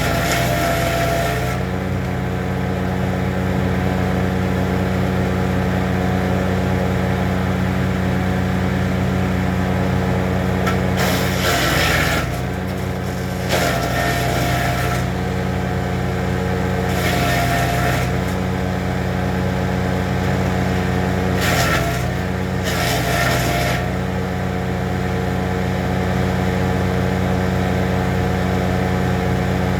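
Small petrol engine of a Honda wood chipper running steadily at speed. About five times in the middle stretch, a second or two of loud crunching hiss cuts in as wood goes through the cutter, with the engine pitch sagging briefly under the load.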